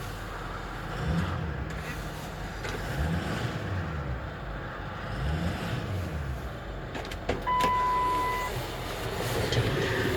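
Ford F-550 Super Duty truck engine running, revved up and back down three times about two seconds apart. Near the end comes a single high electronic beep lasting about a second.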